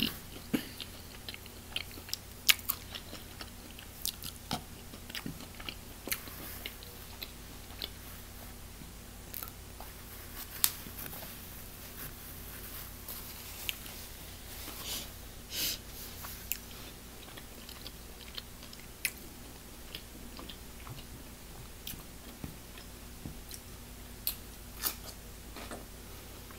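A person chewing and biting food close to the microphone, with scattered sharp crunches over a steady low background.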